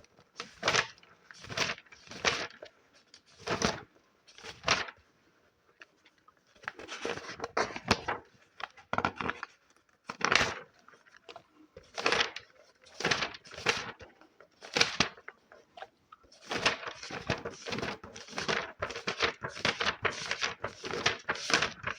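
Paper of a book handled close to the microphone: a long run of short, crisp rustling strokes in irregular clusters, with brief lulls about five seconds in and again past the middle.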